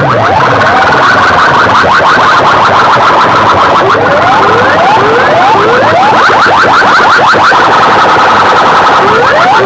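Large PA sound systems blasting electronic siren-style effects, very loud: repeated short rising whoops, several a second in bursts, over steady high tones. It is the overlapping racket of rival rigs playing at once in a sound-system competition.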